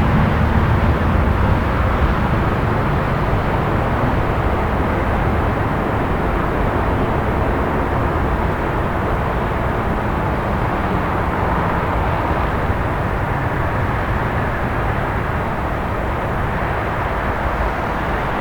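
City night ambience: a steady, even rumble of distant traffic, a little louder at first and easing slightly.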